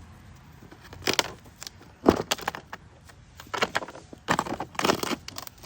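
Pieces of stone being handled: a few separate hard clacks and knocks of stone on stone, with a short run of scraping clatter near the end.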